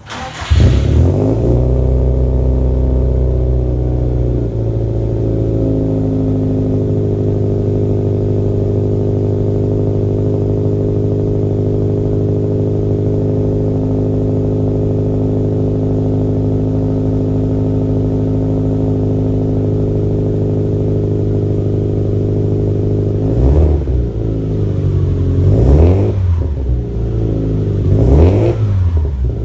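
Subaru EJ207 turbocharged flat-four with an Invidia G200 cat-back and catless downpipe starting from cold, catching about half a second in, running at a fast cold idle that settles about four seconds in, then idling steadily. Near the end it is revved briefly three times, each rev rising and falling back to idle.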